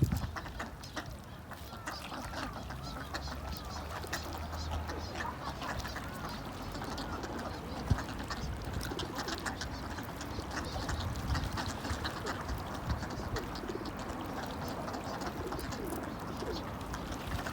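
Several birds chirping and calling at once, with many short, quick calls that rise and fall, and a low hum for a few seconds near the start.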